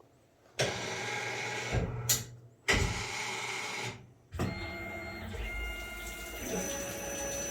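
Tormach CNC lathe running through a tool change: its motors run in two short spells of about a second each, then settle into a steady run with a thin whine as it sets up to drill a pilot hole.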